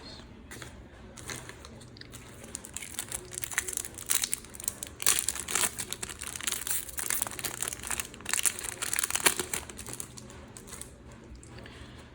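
Plastic trading-card packet wrapper crinkling and crumpling in the hands as a pack is opened, in bursts of crackling that build up about three seconds in and peak twice, before settling down again near the end.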